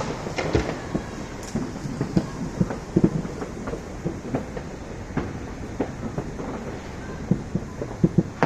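Neighbourhood fireworks and firecrackers going off in a rapid, irregular crackle of pops, several a second, with louder bangs about three seconds in and near the end.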